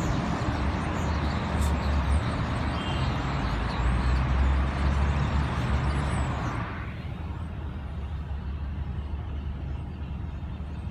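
Road traffic noise: a vehicle passing close by with a low rumble, dropping away sharply about seven seconds in to a quieter background rumble.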